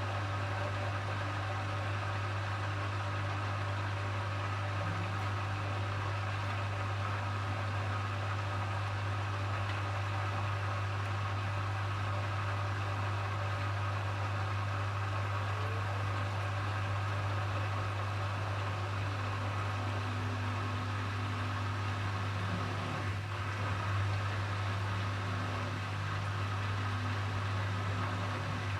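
Hoover HW411AMC washing machine running steadily during its final spin programme, with a constant low hum and mechanical hiss that do not change in pitch.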